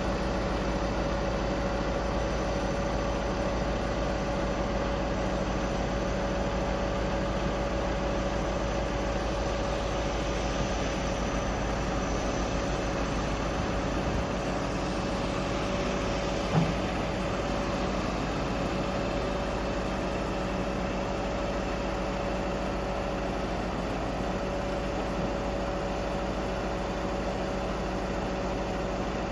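Scania R520 truck's V8 diesel idling steadily, with a steady whine over the engine note. A single short click about sixteen seconds in.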